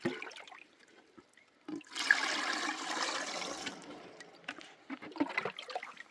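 Water pouring out in a gush of about two seconds that starts suddenly and tails off, with light knocks and clatter around it.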